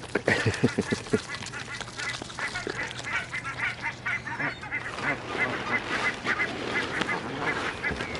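A flock of barnacle geese calling in short, rapid, overlapping honks, several a second. There are a few sharp knocks in the first second.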